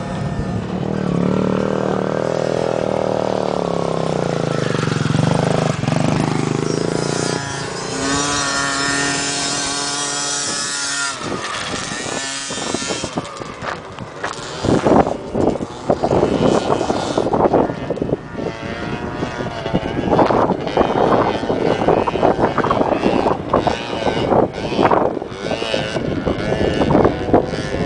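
Motocross dirt bike engines running on the track, the pitch climbing and dropping as riders rev, shift and pass. From about halfway on, the engine tone gives way to a choppy run of irregular loud bursts.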